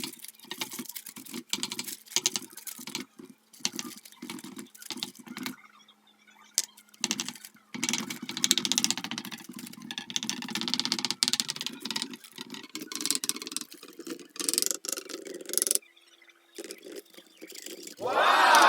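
Clicks, knocks and clatter of kitchen work with utensils, with stretches of rushing noise in the middle. Near the end a loud falling swoosh.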